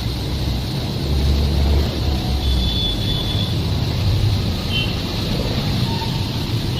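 A running train: a loud, steady rumble, strongest low down and swelling about a second in, with a few faint brief high squeaks.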